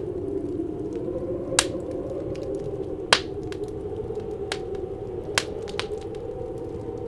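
Wood fire crackling with scattered sharp pops, the loudest about a second and a half and three seconds in, over a steady howling wind that wavers in pitch.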